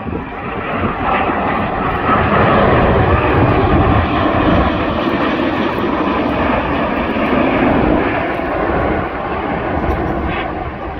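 Boeing 787-8 jet airliner passing low overhead on approach to land, its engine roar swelling over the first couple of seconds, holding, then easing off near the end.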